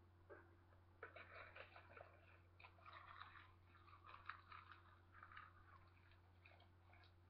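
Faint, irregular crackling of crisp roasted seaweed being bitten and chewed, starting about a second in and thinning out near the end.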